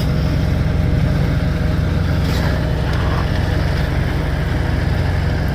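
Diesel engine idling steadily, a low even hum. A faint tick about two seconds in.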